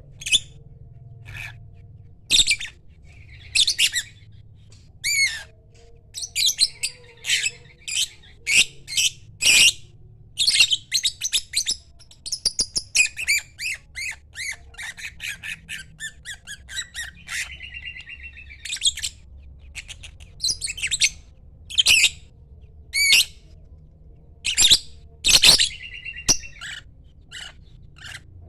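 Lovebird calling: a long string of short, shrill chirps and squawks in quick succession, with a run of rapid chattering trills in the middle.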